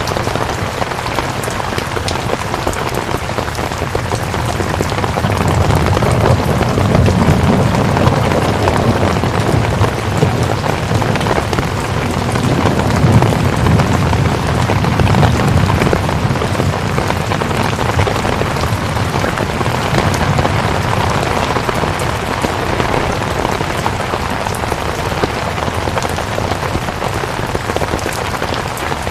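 Steady rain falling, a dense hiss full of fine drop patter. A low rumble swells up through the middle and then eases back.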